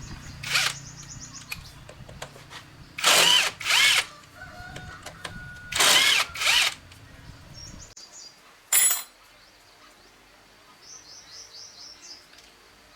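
A power tool run in short bursts of about half a second, mostly in pairs, with a low hum that stops about 8 seconds in. Small birds chirp near the start and again near the end.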